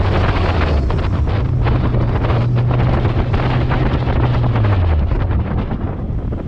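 BMW E46 race car's engine running at a light cruise under heavy wind buffeting on an outside-mounted camera microphone. The engine note rises a little, then drops in pitch about three-quarters of the way through as the car eases off.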